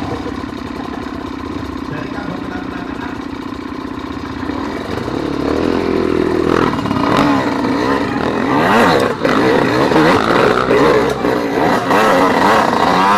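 Trail motorcycle engines idling steadily, then from about five seconds in several engines revving up and down at once, louder.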